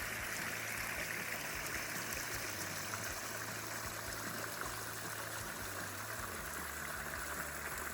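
Rainwater running steadily down a normally dry gully after heavy rain, an even rushing flow.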